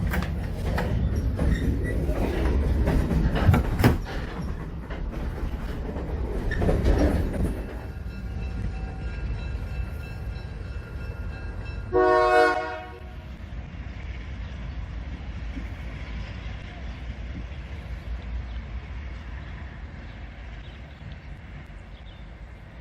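A moving train rumbles and clatters with several sharp knocks, then, about 12 s in, an Alco FPA diesel locomotive gives one short horn blast, the loudest sound. Steady rumble follows and slowly fades.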